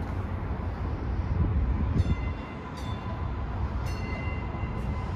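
MBTA Green Line light-rail train approaching the station: a steady low rumble with a few short, sharp high-pitched sounds.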